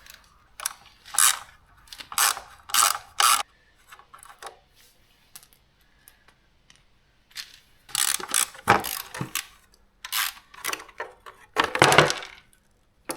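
Small socket ratchet with a hex bit clicking in bursts of quick strokes while undoing motorcycle bash plate bolts, with a quieter pause in the middle.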